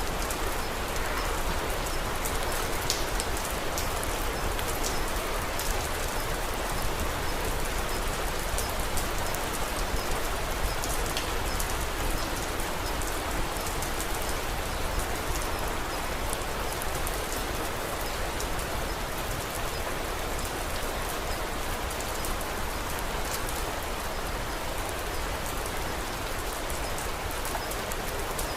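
Steady rain falling: an even hiss sprinkled with many small sharp ticks.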